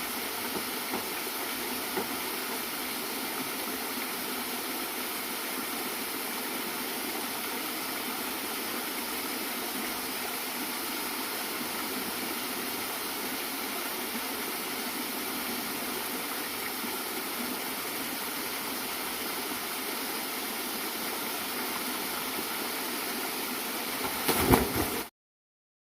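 Water pouring steadily from a bamboo-pipe waterfall into a pond: an even rushing splash. There are a few light clicks near the start and a brief louder clatter just before the sound cuts off abruptly near the end.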